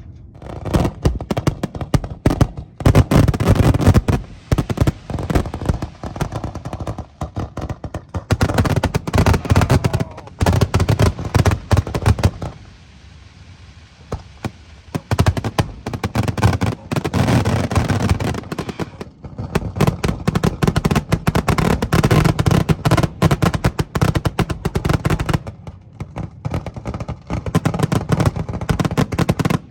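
Fireworks going off in rapid runs of bangs and crackles, several barrages with short lulls between them.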